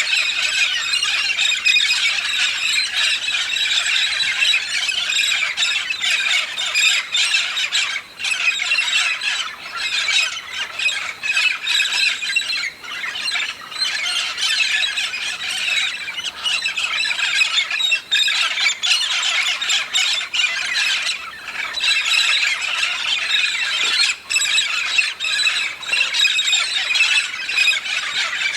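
A large flock of red-spectacled parrots (Amazona pretrei) calling all at once: a dense, continuous din of overlapping shrill squawks and screeches.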